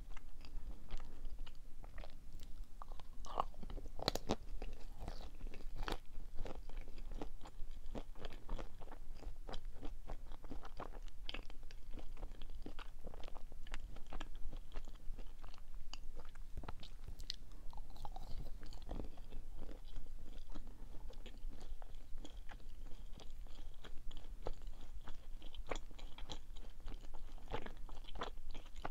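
Close-miked chewing of a soft chocolate-coated marshmallow sweet, with a steady stream of small wet mouth clicks and smacks.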